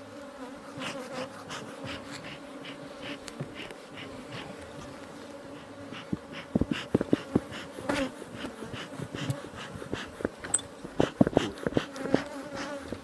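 Honeybee colony humming steadily around an opened hive. About halfway through, a string of sharp knocks and clicks starts and carries on to the end: the hive's boxes and frames being handled.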